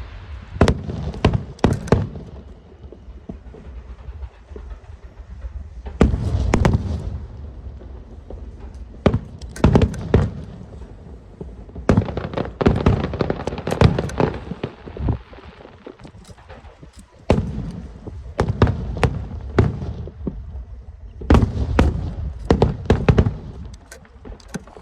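Aerial fireworks going off: clusters of sharp shell bursts and crackles, separated by a few seconds of lower rumble, with a fresh volley every few seconds.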